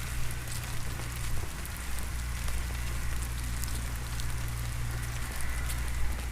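Steady rain falling, an even patter with scattered sharp drop ticks over a low steady rumble.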